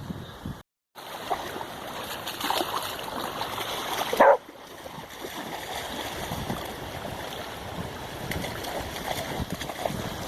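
Flood-swollen river rushing steadily, with wind buffeting the microphone. The sound drops out completely for a moment just under a second in, and a single loud, brief sound stands out about four seconds in.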